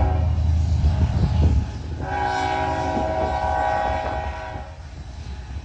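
Diesel locomotive air horn: a short blast at the start, then a long blast of about two and a half seconds beginning about two seconds in, over the low rumble of the locomotive engines.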